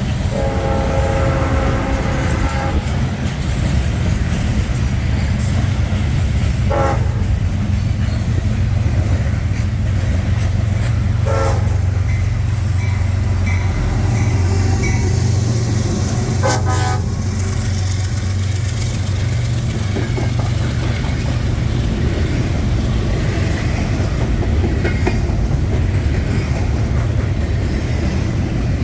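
Freight train rolling past with a heavy, steady low rumble, its locomotive horn sounding a chord for about two seconds at the start. Three brief sharp sounds stand out later, spaced several seconds apart.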